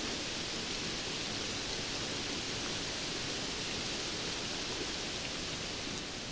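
Steady rain falling, an even hiss with no thunder or other events.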